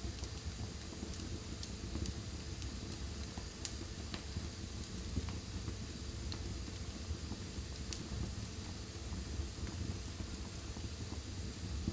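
Wood fire burning in a fireplace: a steady low rumble with scattered crackles and pops, a few sharper pops about four, five and eight seconds in.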